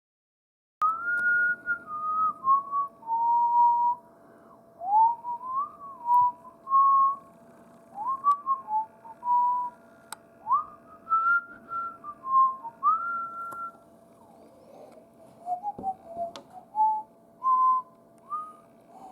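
A person whistling a tune in clear single notes, some held and some sliding up into the next, starting about a second in. A faint steady hum runs underneath.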